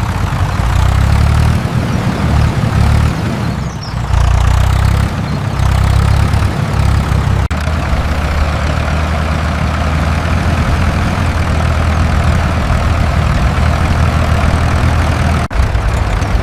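Tractor engine running with a steady low rumble, broken by short dropouts about seven and a half and fifteen and a half seconds in.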